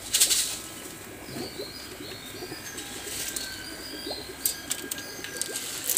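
Birds calling, with faint high chirps and a drawn-out whistle-like note, over a low background hum. A short loud rush of noise comes right at the start, and a few sharp clicks come near the end.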